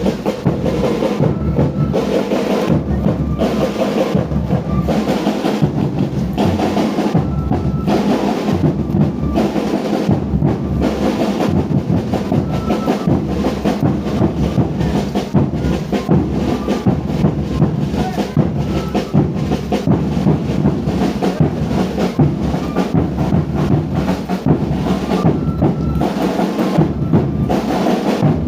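Drum band playing a steady, continuous beat on bass drums and snare drums.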